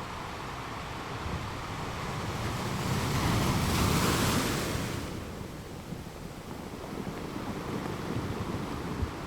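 Ocean surf: a wave swells, breaks and washes in, loudest about four seconds in, then falls back to a lower steady wash.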